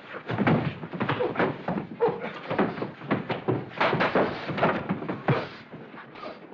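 Old film soundtrack of a physical struggle: a rapid, irregular series of thuds and knocks with short vocal sounds among them.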